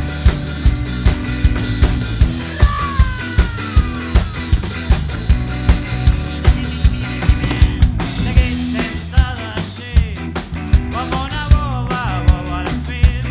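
Live band music: drum kit keeping a steady beat of about two hits a second under bass, with sliding and wavering melodic lines over it.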